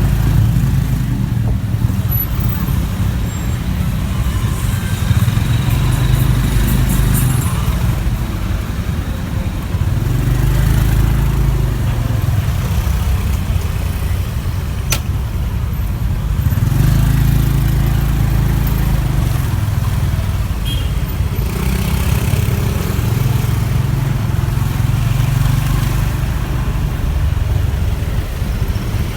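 Riding on a motorbike in city traffic: a heavy low rumble of wind on the microphone and the bike's engine, swelling and easing every few seconds, with surrounding traffic behind it.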